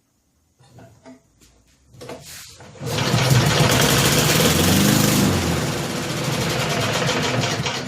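Small Tecumseh single-cylinder engine on a Snapper walk-behind mower: a few knocks and rattles from the pull start, then the engine catches about three seconds in, runs unevenly for about five seconds and cuts out near the end. It won't stay running, which the owner puts down to the engine sucking air and a bad carburetor.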